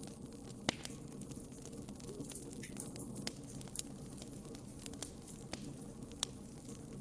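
Wood fire burning in a fireplace: a steady low rumble with irregular sharp crackles and pops, two of them louder, about a second in and near the end.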